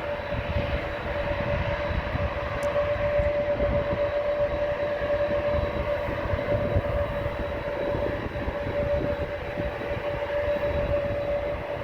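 Jet airliner engines running with a steady tone, heard over wind buffeting the microphone in uneven low rumbles.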